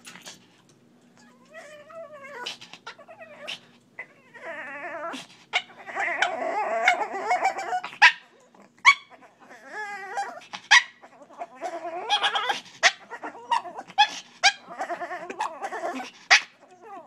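Shih Tzu making a run of weird, wavering vocal noises in bouts, with short sharp sounds between them, to get attention: begging to be let up on the bed.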